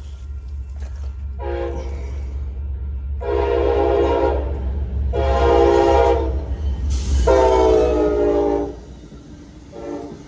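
Train horn sounding a series of long blasts, four of them plus the start of a fifth near the end, each held for over a second, over a steady low rumble.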